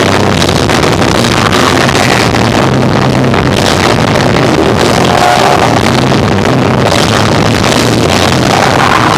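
Rock trio playing live, with electric guitar, bass and drums; the recording is loud and harsh, overloaded into distortion.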